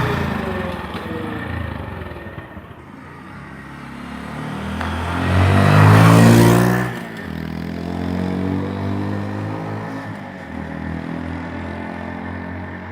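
Honda Monkey 125's single-cylinder four-stroke engine through its stock exhaust, revving: the pitch climbs to a loud peak about six seconds in, drops sharply as the throttle closes, then rises and falls again more gently.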